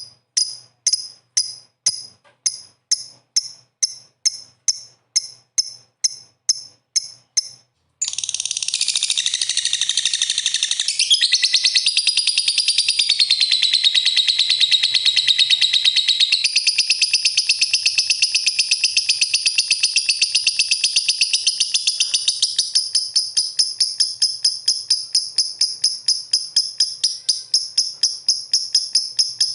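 Lovebird calling: a run of sharp, high chirps, about three a second, then, about eight seconds in, a long unbroken high-pitched chattering trill that grows more pulsed toward the end.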